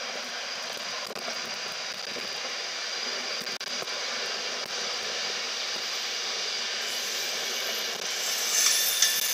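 Virgin Trains Pendolino electric train at the platform, giving out a steady rushing hum. The noise grows louder about eight seconds in, with a few sharp clicks.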